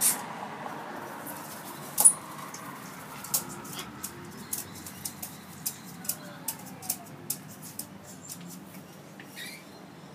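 Pet parrots on a balcony railing making irregular sharp clicks and taps, about two or three a second. The loudest comes about two seconds in with a brief high squeak, and a low steady background hum runs underneath.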